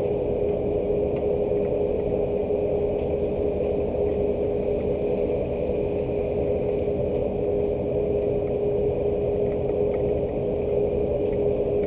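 Steady rain with a constant machine hum holding one steady tone, and a few faint scattered drip ticks.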